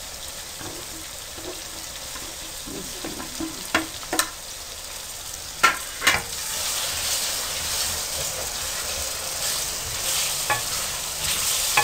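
Chopped tomatoes and green chillies sizzling in hot oil in an aluminium wok over high heat, with a spatula stirring and knocking sharply against the pan a few times. The sizzle grows louder about halfway through as the stirring gets going.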